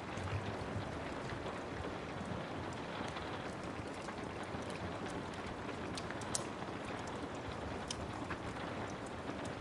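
Steady rain with a wood fire crackling: a constant hiss with scattered sharp pops, the loudest a little past halfway.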